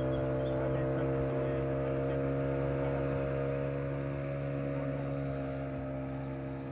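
A steady engine hum at a fixed pitch, fading slowly toward the end.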